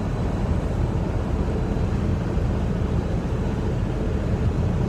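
Diesel engine of a Freightliner semi truck running steadily, a constant low rumble heard inside the cab.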